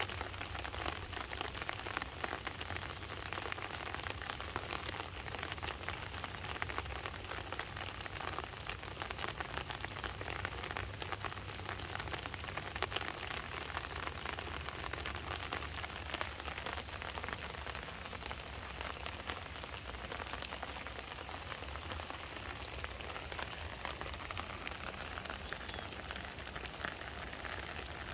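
Gentle rain falling on a pond's surface and on water hyacinth leaves, an even patter of many small drops over a low steady rumble.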